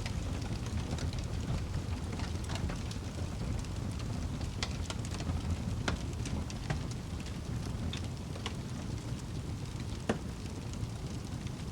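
Wood fire burning in a fireplace: a steady low rumble of flames with irregular crackles and pops, a sharper pop about ten seconds in.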